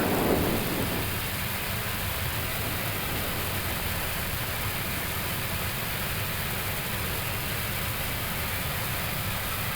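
Steady, even hiss-like background noise with a low rumble on the flight deck of an Airbus A321neo taxiing at idle after landing.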